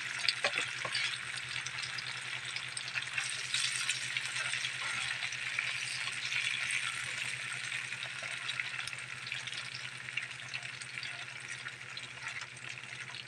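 Oarfish pieces deep-frying in hot oil in a pan: a steady sizzle scattered with small pops and crackles.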